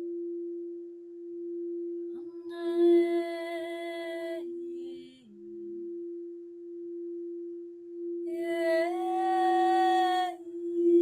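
A singing bowl ringing steadily, its tone swelling and fading about every two seconds. A voice sings two long held notes over it, one about two and a half seconds in and one about eight seconds in, the second sliding up slightly as it begins.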